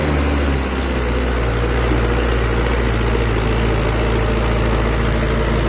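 Tractor engine running steadily with a deep, even low hum.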